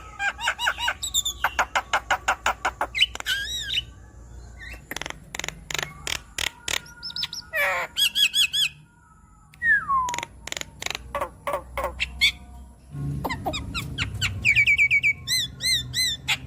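Javan myna singing a long, varied song: quick runs of clicking and harsh chattering notes, mixed with whistled notes that slide up and down and warbling trills. There is a brief pause a little past the middle.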